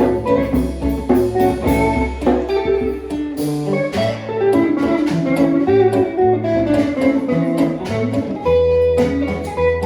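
Live acoustic and electric guitars playing an instrumental passage: picked melody notes over a shifting line of low held notes.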